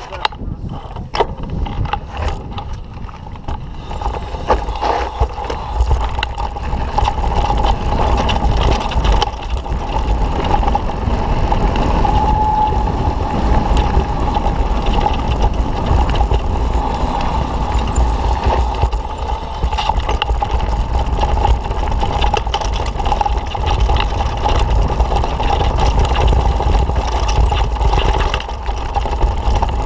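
Mountain bike being ridden over a dirt trail: wind buffeting the microphone over tyre noise, with the bike clattering and knocking over bumps and a steady whine underneath.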